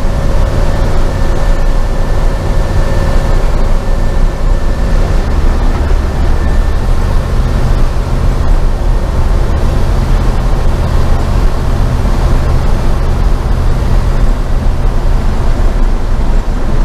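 Cab of an LS V8-swapped Chevy C10 pickup on the move: steady engine drone with road noise, the engine note shifting about five seconds in. A thin steady whine fades out around seven seconds in.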